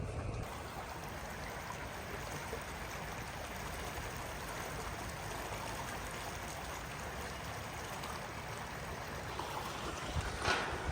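Steady rush of running water, like a stream, with a sharp knock or two near the end.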